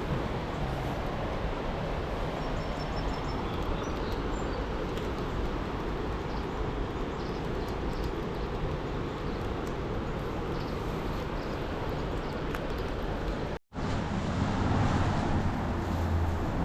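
Steady rushing roar of water released through an open dam's gates. It drops out abruptly about three-quarters of the way through and comes back with a louder low rumble.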